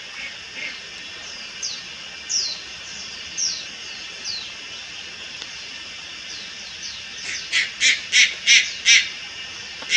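Juvenile Malayan night heron calling: a few short, high, downward-sliding notes, then about a second and a half of louder, harsh calls about three a second, starting around seven seconds in.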